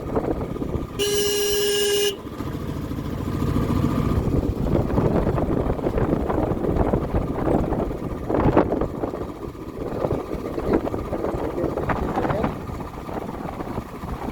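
A vehicle horn sounds once, a steady tone for about a second, over the continuous rumble of a motorcycle being ridden with wind buffeting the microphone.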